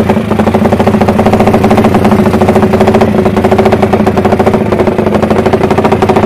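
Street drag-racing motorcycle engine running loud and steady at held revs, with a rapid, even pulsing beat and a pitch that neither rises nor falls.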